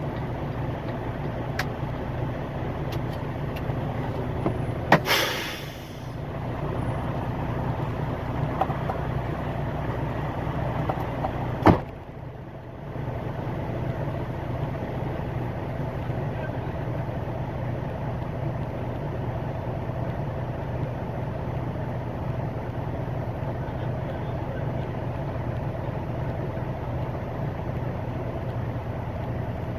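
Semi-truck engine and road noise heard from inside the cab while driving, a steady low hum. Two sharp clicks break it, about 5 seconds and 12 seconds in, each followed by a brief dip in the sound.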